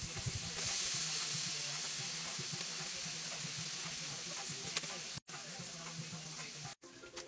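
Breaded pork chops sizzling as they fry in hot oil in a skillet, a steady crackling hiss. The sound cuts out abruptly twice near the end.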